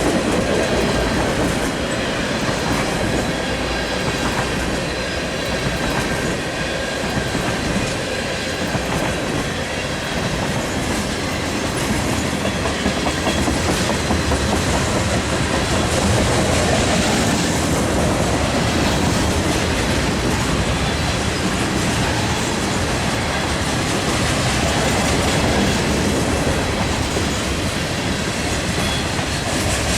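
Freight train cars rolling past at close range, with a steady loud clatter of wheels over the rail joints.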